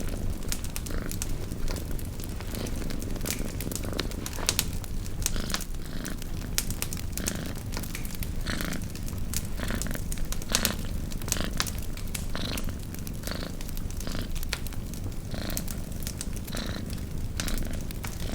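Cat purring steadily under the irregular crackle and sharp pops of a campfire.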